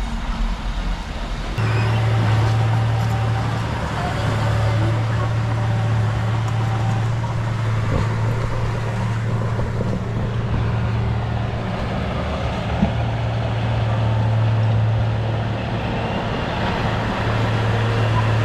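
Bulldozer's heavy diesel engine running steadily under load, a deep drone; its note shifts abruptly about a second and a half in.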